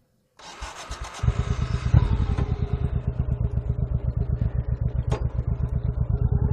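Motorcycle engine starting up: a short churn, then it catches about a second in and runs with a loud, even pulsing beat. A sharp click comes near the end.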